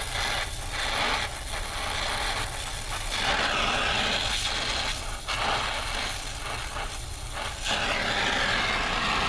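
Brazing torch flame hissing steadily as it heats a copper refrigerant pipe joint to flow Sil-Fos brazing rod, over a steady low hum.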